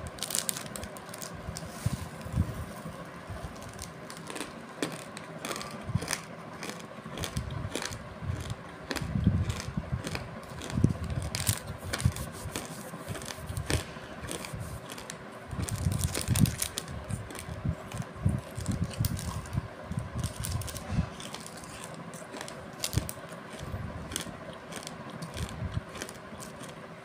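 Clear plastic bag crinkling and fennel seeds crunching as they are chewed close to the microphone, in irregular clicks and soft thumps. A faint steady hum sits behind.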